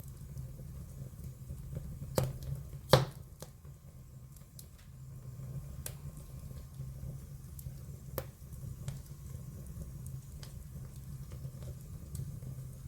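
Wood fire in a fireplace crackling: scattered small crackles and a few sharp pops, the loudest about two and three seconds in and another near eight seconds, over a steady low rumble.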